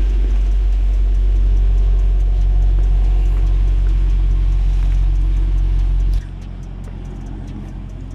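Car engine idling with a steady deep rumble, which drops suddenly to a much quieter hum about six seconds in.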